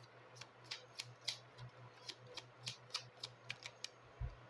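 Oracle cards being handled: a run of about a dozen light card snaps and taps, irregular at three or four a second, as the cards are turned and laid out.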